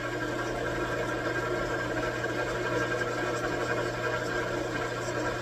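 A machine-shop machine tool running steadily, giving a constant, even hum.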